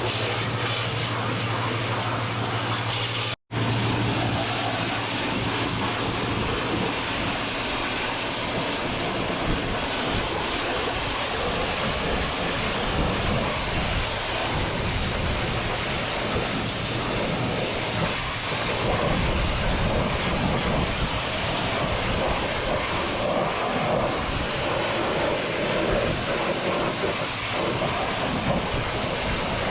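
High-pressure washer running, its water jet hissing steadily against farm machinery over a low rumble. It cuts out for an instant about three and a half seconds in.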